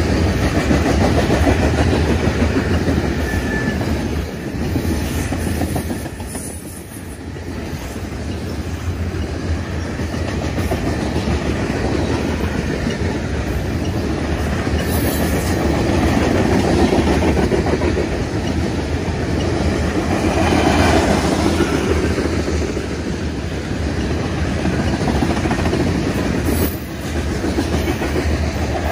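Freight train of steel covered hopper cars rolling past close by: a steady rumble of wheels on the rails, dipping briefly about six seconds in.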